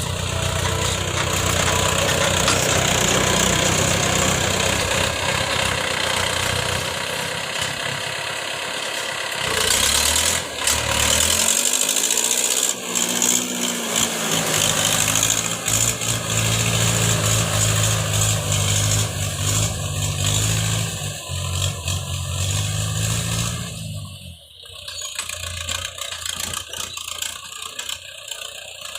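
Tractor diesel engine running loud and steady, its pitch dipping and climbing again around the middle as the revs change. It falls much quieter for the last few seconds.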